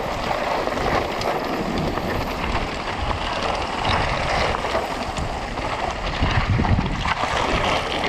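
Wind buffeting a rider-mounted camera's microphone during a fast mountain bike descent, with a steady rushing noise. The bike rattles and knocks over rough ground.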